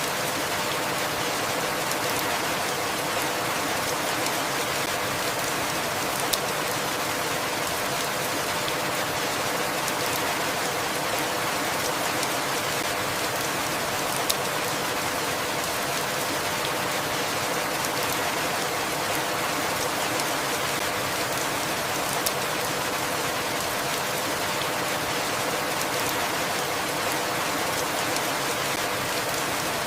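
Steady, even rainfall, with a sharp single tick about every eight seconds.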